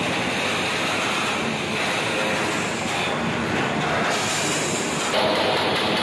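Small underbone motorcycle engine running loud and steady through an open exhaust. The sound changes abruptly about five seconds in.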